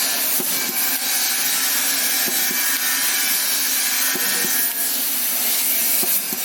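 CNC fiber laser cutting sheet metal: a steady hiss with small ticks scattered through it.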